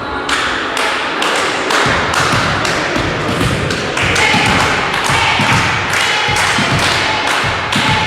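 Spectators clapping together in a steady rhythm, about two sharp claps a second, over a low crowd din.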